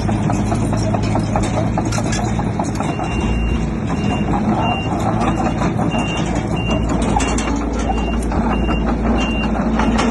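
Heavy diesel construction machinery running steadily, with clanking and rattling. A few seconds in, a reversing alarm starts beeping about twice a second, meaning a machine is backing up.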